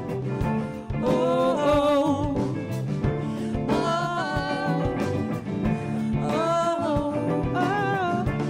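Live band music in a funk-soul groove, with a sung melody line without clear words over bass and a steady drum beat.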